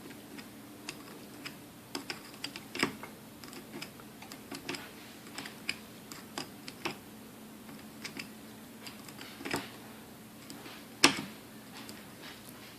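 Small irregular clicks and taps of hands handling metal and plastic parts of a vintage Sunbeam Mixmaster stand mixer being taken apart, with one sharper knock about eleven seconds in.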